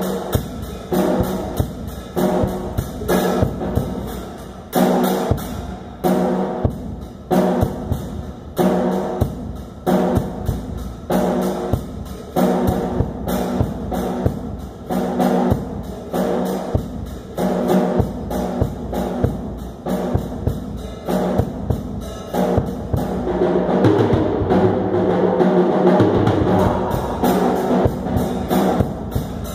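Drum kit played in a busy rhythm, with pitched drum tones and a loud accent about once a second. A dense roll comes near the end.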